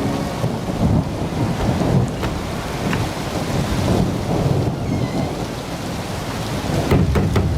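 Thunderstorm: steady rain with low rolling thunder, and a sharper crackling thunderclap near the end.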